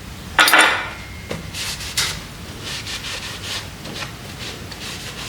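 Kurt milling-machine vise being handled and shifted on a bench: one loud metal scrape about half a second in, then a series of lighter rubbing scrapes.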